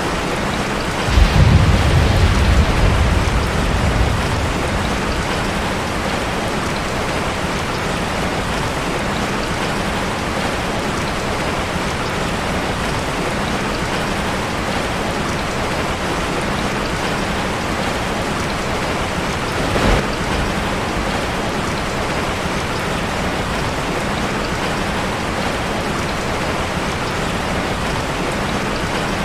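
Steady rain falling on a metal roof, with a low rumble of thunder starting about a second in and fading over a few seconds, and a single brief sharp crack about two-thirds of the way through.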